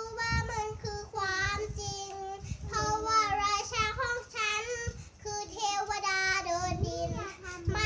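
A child singing in a high voice, an unaccompanied melody of held notes that bend and waver, with low thumps underneath.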